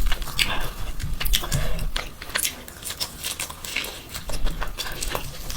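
Close-miked mukbang eating sounds: a person chewing and biting mouthfuls of spicy mutton mandi, an irregular run of short clicks and smacks.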